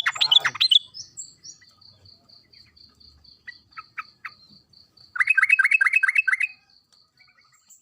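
Yellow-vented bulbul (trucuk) chattering: a quick burst of calls at the start, a few single notes, then a rapid run of about eight notes past the middle. Behind it runs a steady high pulsing note about four times a second.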